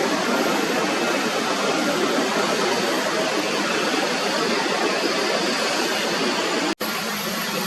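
Steady roar of a jet airliner's engines, broken by a split-second dropout near the end before it carries on.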